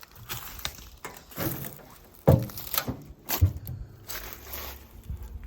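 Irregular crunching and rustling, like footsteps and movement through dry brush and debris, with two sharp thumps, the louder about two seconds in and another a second later.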